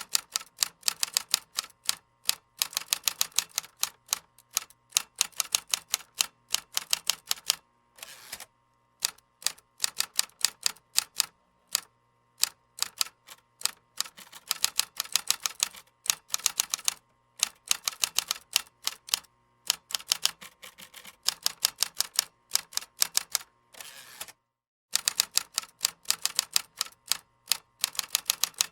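Computer keyboard typing: runs of rapid keystrokes, several clicks a second, broken by short pauses.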